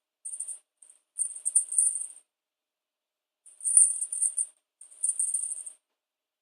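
Feathers of a Da Bird wand cat toy whirring high-pitched through the air as it is swung, in about five short bursts with pauses between, the longest about a second.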